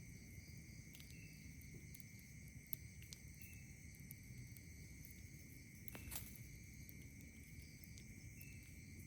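Faint, steady trilling of night insects, with a campfire crackling now and then in a few sharp pops, the loudest about six seconds in.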